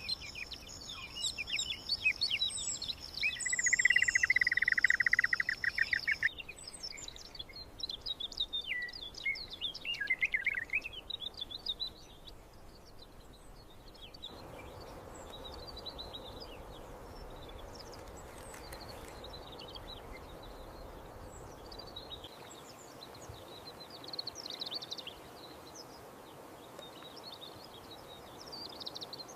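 Small birds chirping and singing in short high notes, with a buzzy trill about three to six seconds in. Later the chirps are fainter and scattered over a steady background hiss.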